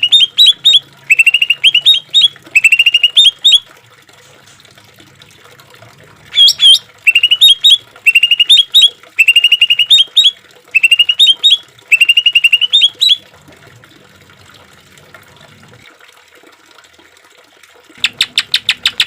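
Greater green leafbird (cucak ijo) singing: short phrases of quick rising notes repeated about once a second, with a single sharp call in a pause midway. Near the end a rapid run of evenly repeated notes begins.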